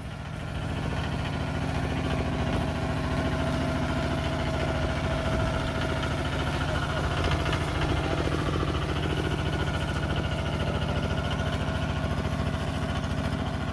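Tractor engine running steadily with an even, rapid firing pulse. It grows louder about half a second in, then holds level.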